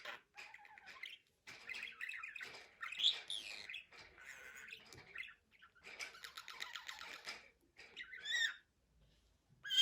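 Budgerigar warbling and chattering in several quick bouts with short pauses, ending in a sharper squawk.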